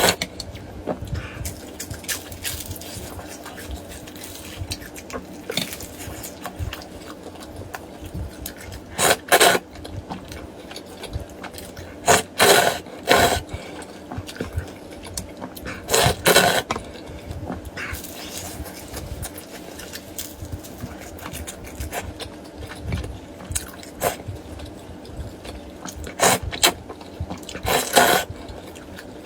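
Close-miked eating of duck blood vermicelli soup: soft chewing and mouth sounds, broken by about six short, loud slurps of noodles and broth.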